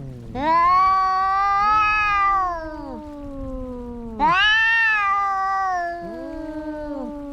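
Cats caterwauling in a fight: two loud, drawn-out yowls about four seconds apart, each about two seconds long and wavering in pitch, with a fainter, lower wail carrying on between them.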